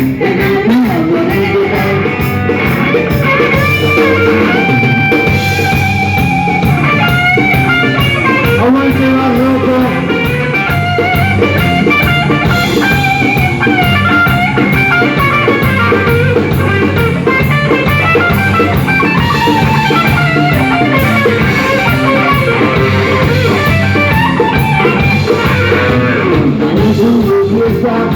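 Rock and roll band playing an instrumental break: a guitar plays melodic lead lines over bass and a drum kit keeping a steady beat.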